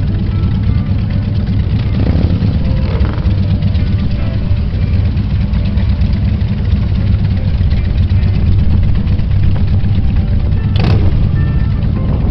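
Many motorcycle engines from a convoy of bikes running together in a steady, deep rumble. There is a louder swell about two seconds in and a brief sharp noise near the end.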